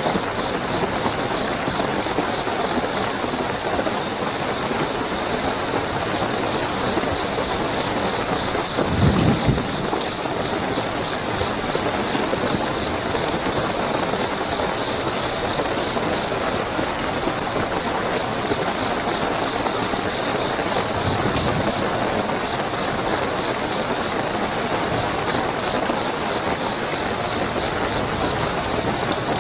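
Steady heavy rain with crickets trilling in one high, unbroken note. A brief low rumble comes about nine seconds in, and a fainter one about twenty seconds in.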